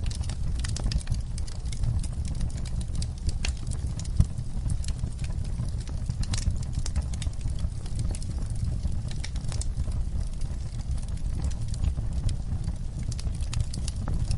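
Wood fire burning with a steady low rumble and constant irregular crackling and popping, one louder pop about four seconds in.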